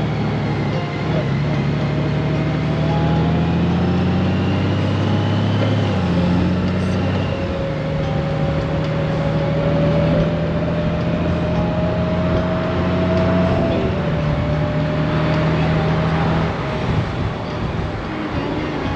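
Honda Gold Wing's flat-six engine running steadily under way, with wind and road noise. The engine note shifts in pitch a couple of times in the first half.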